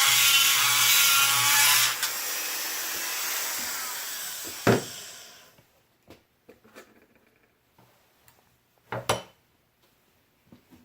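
A small power tool grinding out the inner hole of a transaxle thrust washer to round off its flat corners. It stops about two seconds in and fades away over the next few seconds. A sharp knock comes about halfway through and another near the end, with small clicks of parts being handled.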